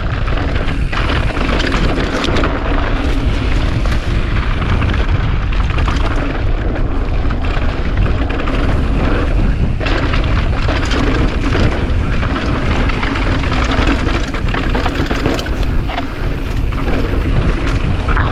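Steady, loud wind rumble on the camera microphone while riding a mountain bike, with tyre noise and scattered knocks and rattles from the trail.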